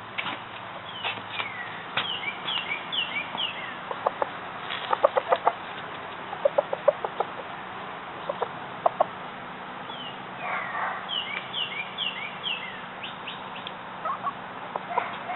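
Chickens clucking in quick runs of short low clucks, the rooster's food call summoning hens to scratch grain. Twice there is a run of quick, high, falling chirps.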